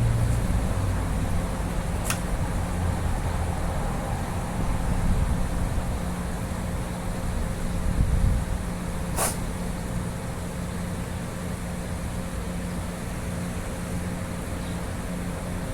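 Steady low machine hum over background noise, with two sharp clicks, about two seconds in and again about nine seconds in.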